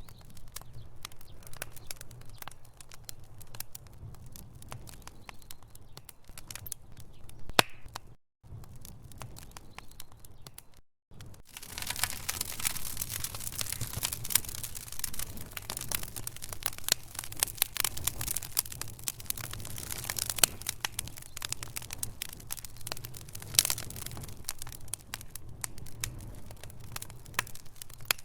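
Wood fire burning in a fireplace: logs crackling and popping over a low rumble, with one sharp pop shortly before the middle. The sound cuts out briefly twice around the middle, and the crackling is denser and louder after the second gap.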